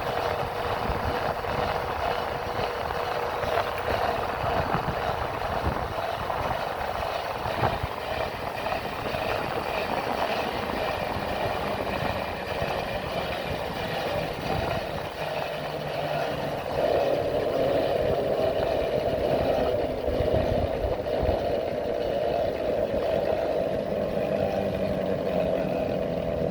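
Motorcycle engine running steadily while riding, with wind rumbling on the microphone. It gets louder and its note changes about seventeen seconds in.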